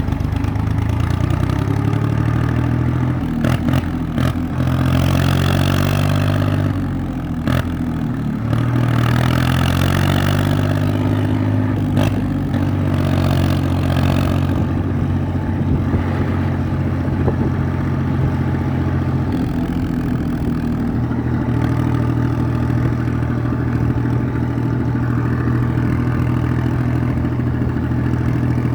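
IMT 549 tractor's diesel engine under way, its revs rising and falling several times with a few sharp clunks as it is shifted through the gears. It then settles into steady running for the second half.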